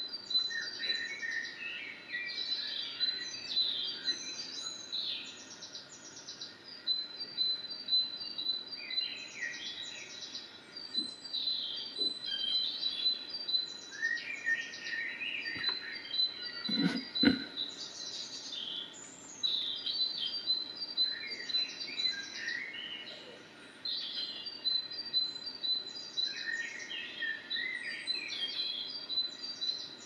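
Songbirds chirping and singing together: rows of short, high repeated chirps mixed with quick sweeping notes, going on without a break. A single low thump sounds about halfway through.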